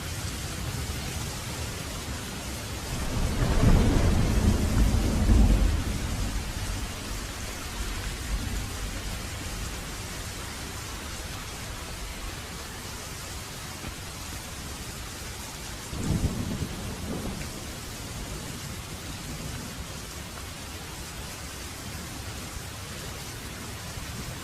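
Heavy rain falling steadily, with a loud rolling thunder rumble about three seconds in that lasts around three seconds, and a weaker, shorter rumble of thunder about sixteen seconds in.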